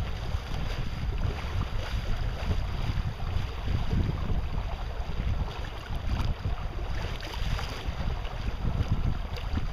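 Wind buffeting the microphone over a steady rush of water past a sailing boat under way.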